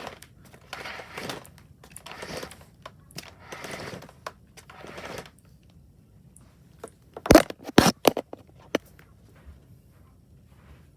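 Power cord of a Hoover WindTunnel Elite Rewind Plus upright vacuum being pulled out, in several rustling, scraping strokes. A few sharp knocks come about seven seconds in and are the loudest sounds.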